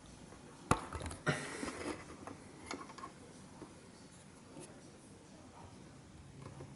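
A sharp knock, then a short rustling scrape and a few light taps and clicks from hard objects being handled.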